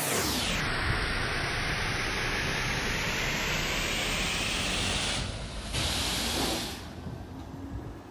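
Car wash equipment running with a steady, hissing rush that fades away about seven seconds in.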